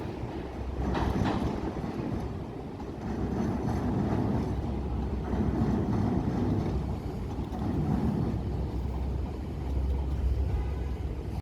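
A passing train: wheels clattering over rail joints about a second in, then a steady low rumble.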